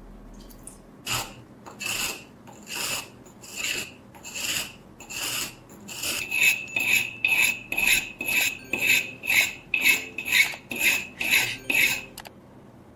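Hand-worked abrasive strokes on the knife's steel, rasping back and forth: about six slower strokes, then a faster run at roughly two strokes a second with a sharper, brighter scrape, stopping suddenly near the end.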